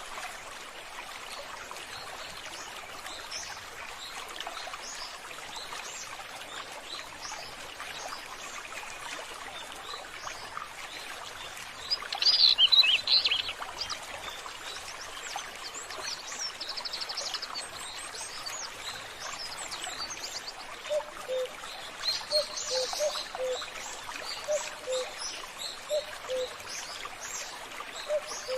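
Water trickling steadily, with birds chirping over it. A loud burst of chirps comes about twelve seconds in, then a short buzzy trill. In the last third, a low two-note call repeats every second or so.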